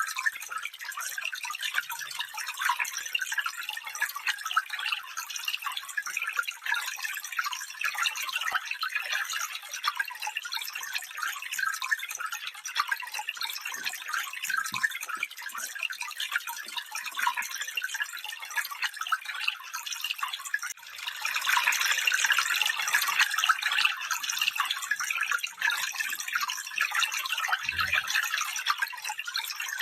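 Small stream running, a dense fast trickling and bubbling of water that swells louder for a few seconds about two-thirds of the way through.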